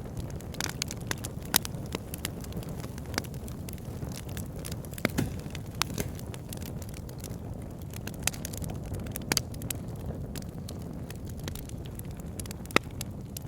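Wood fire burning in a fireplace: a steady low rumble of flames with irregular crackles and sharp pops from the burning logs, a few louder pops standing out.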